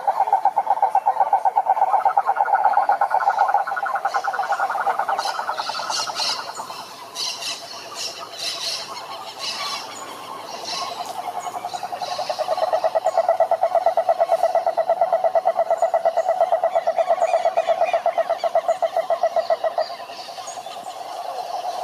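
Frogs calling at a pond in long, fast-pulsed trills. One trill fades out around five seconds in and is followed by a stretch of shorter, higher chirps. A second long trill starts about twelve seconds in and stops shortly before the end.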